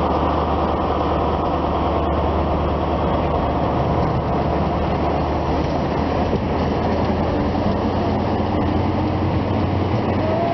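InterCity 125 High Speed Train departing, its Mark 3 coaches rolling past close by with a steady low rumble.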